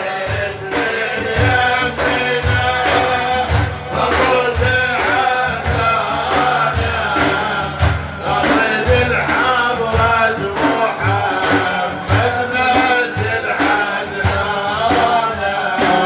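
Frame drums beating a steady rhythm of about two strokes a second, under men's voices singing or chanting a melody.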